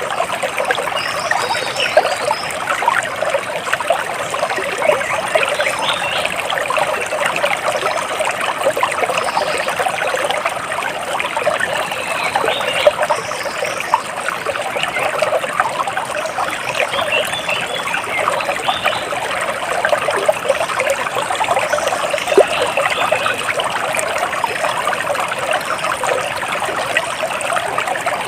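Water splashing and trickling steadily over stones in a stream, a dense even patter of small splashes, with a few faint high bird chirps now and then.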